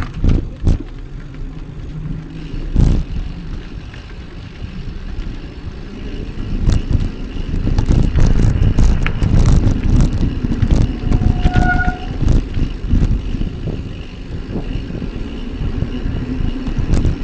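Wind buffeting the microphone during a bicycle ride, with scattered rattling clicks. A short beep sounds about twelve seconds in.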